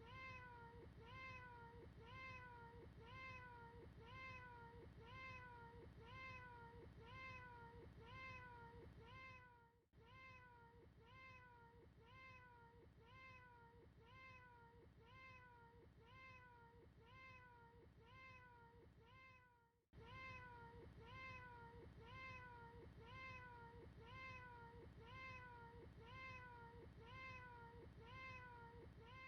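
A short recording of a cat meowing, looped over and over: quick rising-and-falling meows, about two a second, each the same as the last, with brief dropouts about every ten seconds where the loop restarts. Faint.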